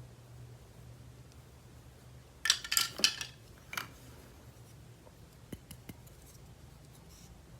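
Toys or their packaging being handled: a quick cluster of sharp clicks and rattles, then one more click, then a few faint ticks, over a low steady hum.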